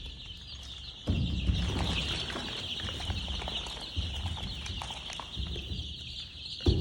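A brood of young chicks, about eleven days old, peeping continuously all together in a high, dense chorus. A louder low rumble joins in about a second in.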